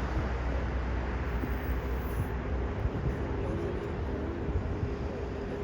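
Jet airliner engines rumbling, a broad low roar that fades slowly as the aircraft moves away.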